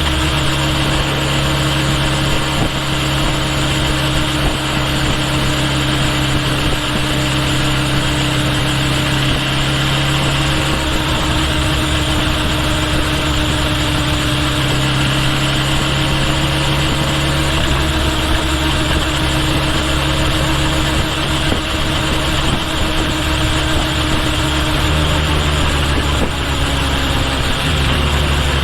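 Kawasaki Ninja H2 SX's supercharged inline-four engine and exhaust running at a steady, even pitch, with no revving, heard from the bike's tail along with an even hiss of air and road.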